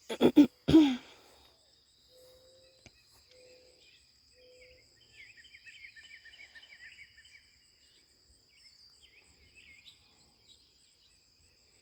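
Outdoor ambience of insects and birds: a steady high insect trill throughout, three short low hooting notes about two to four and a half seconds in, and a bird chattering in the middle. A few sudden loud knocks come in the first second.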